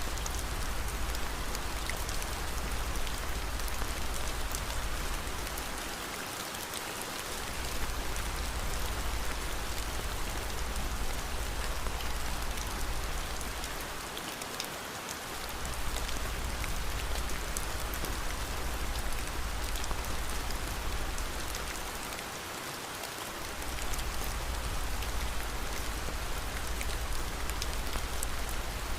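Steady rain, with faint scattered ticks over a low rumble that drops out for about a second three times, roughly every eight seconds.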